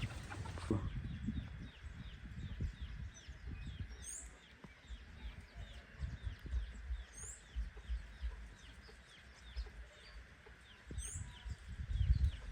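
Birds calling: a steady run of short, high peeping chirps, about three a second, with a higher downward-sweeping call every few seconds. Low rumbling noise on the microphone comes and goes under the calls.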